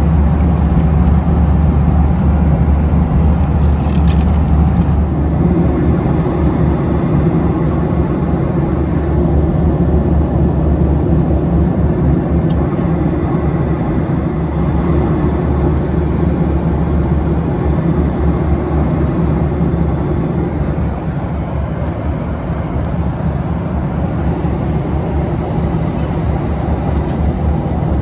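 Steady cabin noise of a Boeing 737-800 in flight: a constant rush of airflow over the fuselage with the low drone of its CFM56 turbofan engines.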